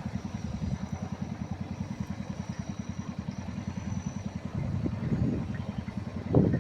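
Small boat's outboard motor running steadily, a fast low throb with many beats a second, with a faint thin high whine over it for the first few seconds and a brief thump near the end.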